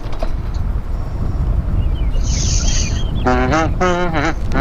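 Wind buffeting the microphone while riding, a steady low rumble. About three seconds in, a person's voice calls out briefly in a sing-song way.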